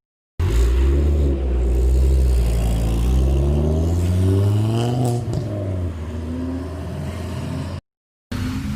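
Car engine accelerating hard, its pitch climbing steadily for about four seconds, then dropping and running on at a lower, steadier note.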